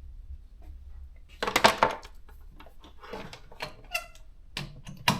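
Plastic clicks and knocks from a small portable electronic thermal typewriter being handled, in a few short clusters, the loudest about one and a half seconds in and a sharp click near the end.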